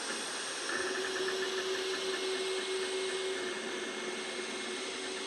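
Two Trees Sapphire Plus CoreXY 3D printer printing: from about a second in, its motors give a steady whine with fast fine ticking that fades after a few seconds, over a constant hiss.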